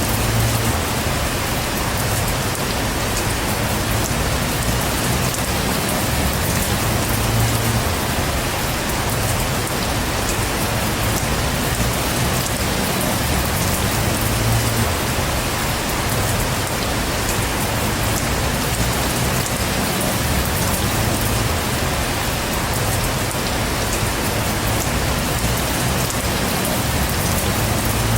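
Heavy rain falling steadily, a dense even hiss of drops with a low rumble that swells and fades.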